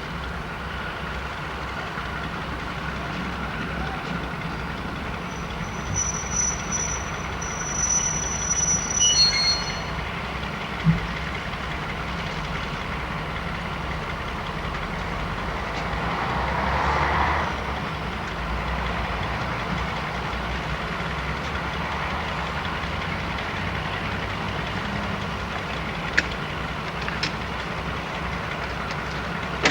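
Diesel train engine running with a steady low rumble, a high squeal from about six to ten seconds in, and a swelling rush about halfway through.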